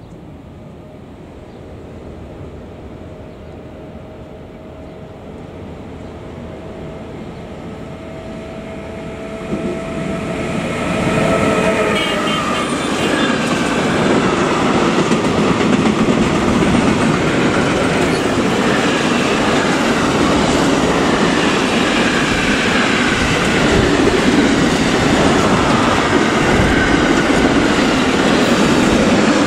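Electric-hauled freight train approaching and passing. A steady whine at two pitches from the locomotive grows louder over the first ten seconds or so. Then the wagons take over with a loud rumble and wheels clacking over the rail joints, with faint squeals, as the container and box wagons go by.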